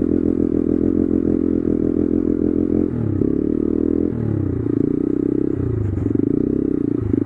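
Honda Grom's 125cc single-cylinder four-stroke engine running through a loud aftermarket exhaust fitted with a baffle. It holds steady for about three seconds, then revs up and down several times.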